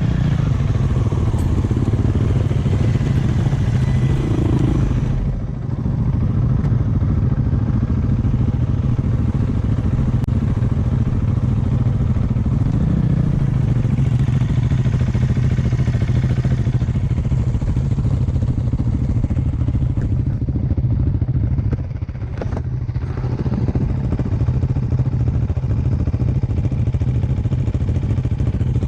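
Dirt bike engine running steadily under way. The throttle eases off briefly twice, about five seconds in and again about two-thirds of the way through.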